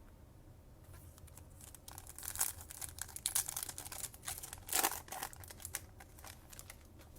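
Foil wrapper of a trading card pack crinkling and tearing as it is opened, in a quick run of sharp crackles.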